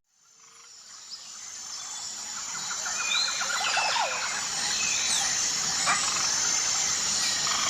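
An outdoor nature ambience fading in over the first few seconds: a steady hiss and a high, steady insect trill, with several short bird chirps in the middle and a single click near the end.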